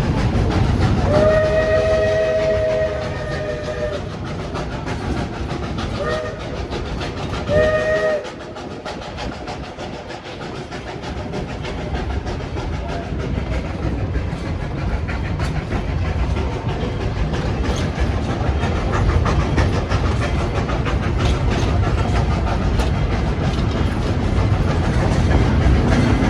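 Train whistle sounding a chord: one long blast, then two short ones a little later, over the steady running noise of the train rolling along the track.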